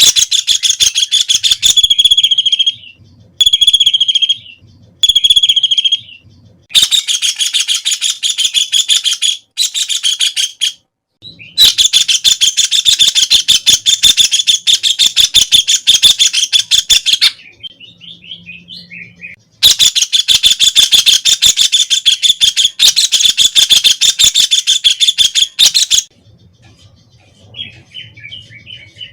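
White-throated kingfisher calling: loud, rapid rattling trills in long bouts of several seconds, with shorter calls in the first six seconds and brief pauses between bouts.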